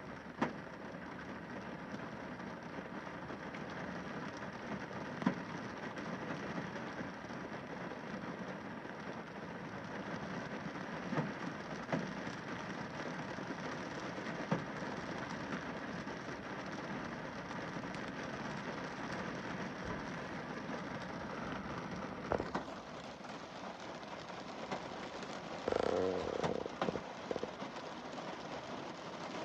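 Rain falling on a car windscreen: a steady patter, with a louder single drop striking the glass every few seconds and a short run of heavier knocks near the end.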